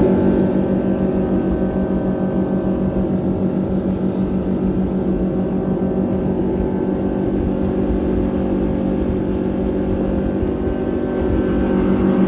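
Boat's outboard motor running at a steady speed, heard from aboard, with an even, fast pulsing drone.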